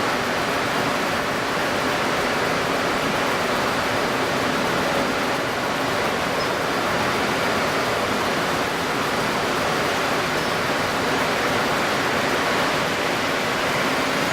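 Steady rushing noise of strong wind over choppy water, with a faint low hum underneath.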